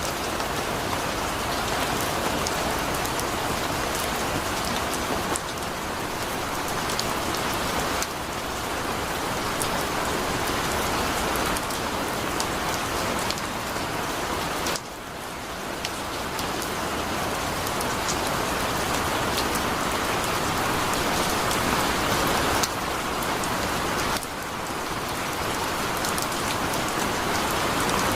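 Heavy rain falling steadily: a dense, even hiss with scattered sharp drop ticks. The level and tone jump abruptly every few seconds.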